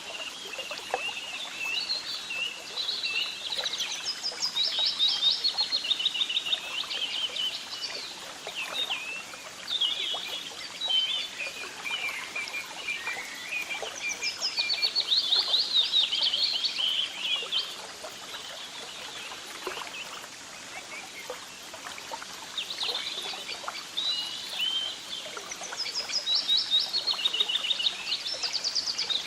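Songbirds singing continuously: chirps and rapid trilled phrases, with louder bursts of fast trills recurring about every ten seconds.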